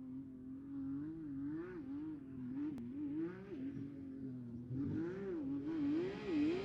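Off-road race truck engine revving, its pitch rising and falling about twice a second as the throttle is worked. Music comes in near the end.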